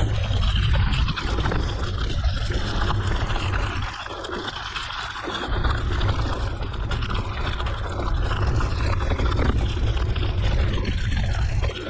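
Steady rushing wind rumble on the microphone with the mountain bike's tyres rolling on a gravel forest road; the low rumble eases briefly about four seconds in, then returns.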